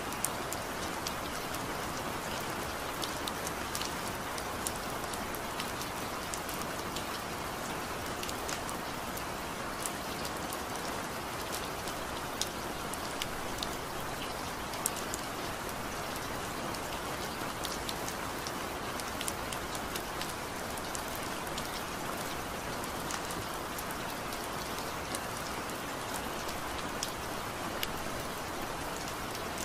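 Steady rain falling, an even hiss with many sharp, irregular ticks of individual drops striking a surface.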